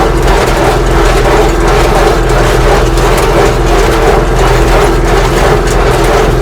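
Farm tractor engine running steadily while pulling a small square hay baler, the baler's mechanism working along with it.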